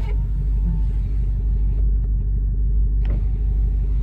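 2015 Camaro SS's 6.2-litre V8 idling steadily on a cold engine, a deep, even exhaust rumble through a Borla ATAK axle-back exhaust with the muffler deleted. A brief click sounds about three seconds in.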